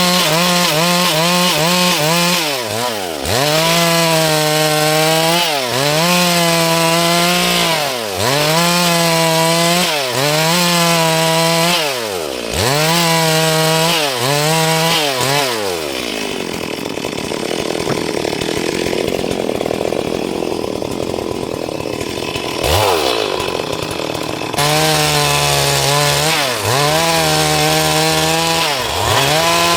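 Stihl MS 382 chainsaw cutting a dry log at high revs, its engine note dipping and recovering every second or two as the chain bites into the wood. For several seconds past the middle the clear engine note gives way to a rougher, noisier running before the dipping cutting pattern returns.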